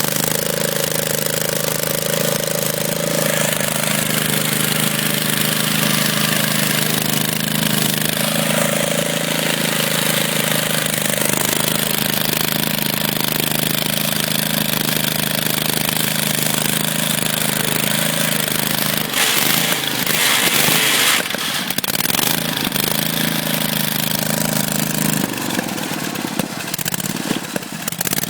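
Tractor engine held at high, steady revs for a burnout, with a short rougher, noisier stretch about nineteen seconds in; about twenty-five seconds in the steady engine note drops away.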